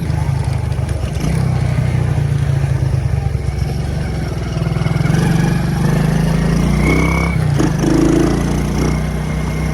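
Motorbike engine running steadily under way, heard close, with a brief drop about seven and a half seconds in.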